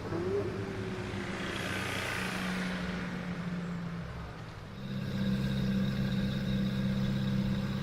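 New Stratos supercar engine running at a steady, low engine speed, dipping briefly about four and a half seconds in, then holding a steady, somewhat louder note.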